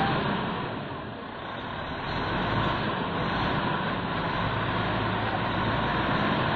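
Cargo truck engine running steadily, easing off about a second in and picking up again shortly after.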